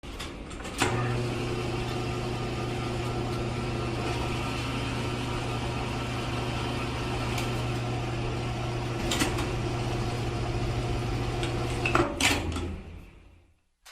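Small electric motor running with a steady hum, starting with a click about a second in and stopping about twelve seconds in, with a few clicks in between.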